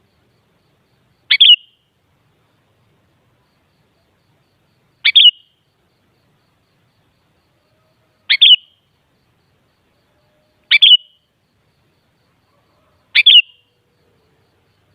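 Sooty-headed bulbul (kutilang) giving short, clear chirping calls, five of them spaced a few seconds apart.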